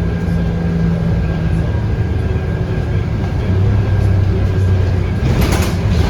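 Scania K230UB bus's 8.9-litre five-cylinder diesel engine running under way, heard from inside the bus, its drone dropping to a deeper tone midway. A short hiss comes near the end.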